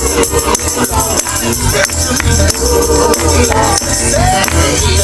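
Live gospel music with singing over a heavy bass beat and a shaken tambourine.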